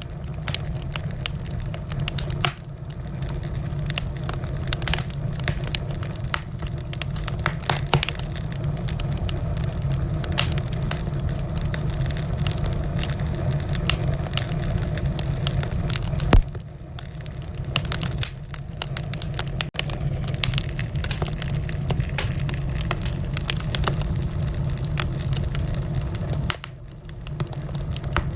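Wood fire in a fireplace crackling and popping over a steady low rumble of the flames, with one loud pop about halfway through.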